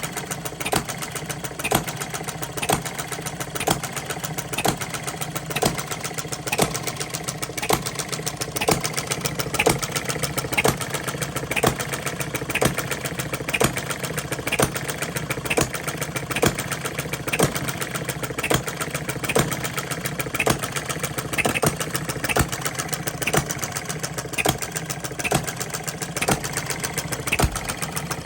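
Small Coles model gas engine running under its governor, with a rapid clicking of its moving parts and a louder firing stroke about once a second.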